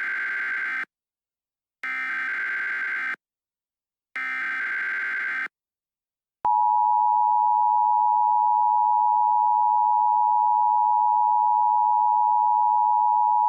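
Emergency Alert System tones. Three evenly spaced bursts of SAME digital header data, each about a second long, mark the start of an alert. About six and a half seconds in, the steady two-tone EAS attention signal starts and holds.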